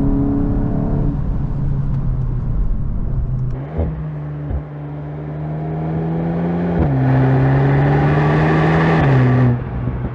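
Golf GTI Clubsport's turbocharged four-cylinder engine and exhaust running under steady throttle, holding a fairly even pitch. About four seconds in the pitch changes, and from about seven seconds it climbs slightly and gets louder and brighter before easing off near the end.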